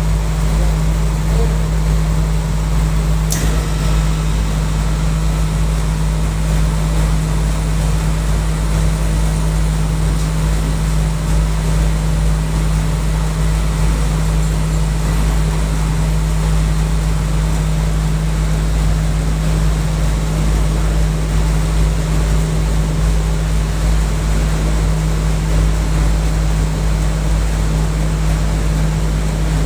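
Packaged air-conditioning unit running with a loud, steady low hum and rumble from its compressor and fan. A single sharp click sounds about three seconds in.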